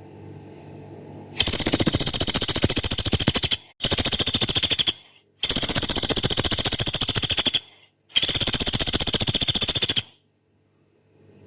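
Pelatuk beras woodpecker giving long, harsh rattling calls: four rapid, evenly pulsed rattles of about two, one, two and two seconds, each stopping abruptly.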